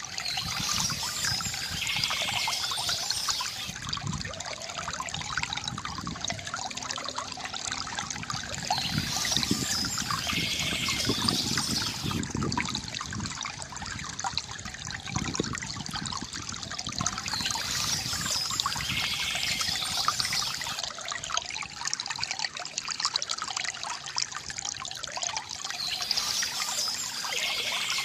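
Stream water trickling and splashing steadily, with a short burst of birdsong returning about every eight or nine seconds.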